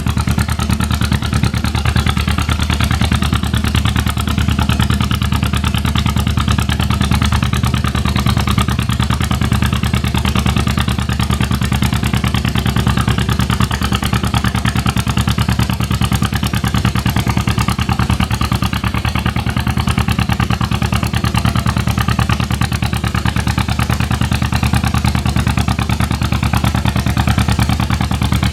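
Antique tractor engine running at a steady speed, its firing pulses even and its pitch unchanging throughout.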